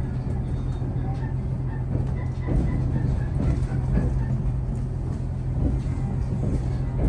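Train noise: a steady low hum over rumble, with scattered knocks and a few short high chirps.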